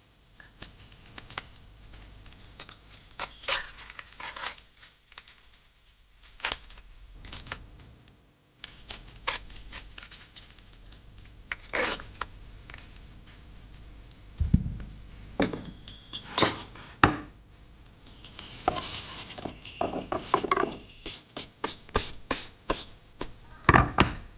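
Kitchen prep sounds: irregular knocks, taps and scrapes of utensils and ingredients being handled on a counter, with a few heavier thuds and a stretch of rustling.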